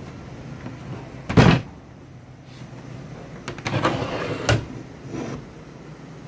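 Handling noise from an amplifier being taken apart: a heavy thump about a second and a half in, then scraping and rustling that ends in a sharper knock, and a lighter knock near the end.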